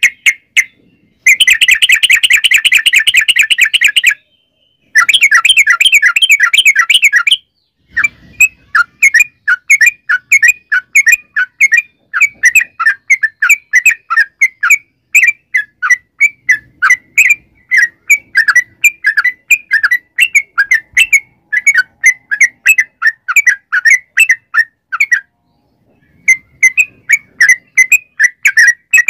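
Yellow-vented bulbul (trucukan) calling loudly: two rapid chattering trills in the first seven seconds, then a long run of short, bubbly notes at about four a second, pausing briefly near the end before resuming.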